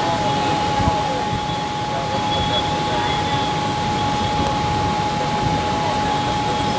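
Suburban electric train running, heard from inside the carriage with its doors open: a steady rumble and rattle with a thin high whine held throughout.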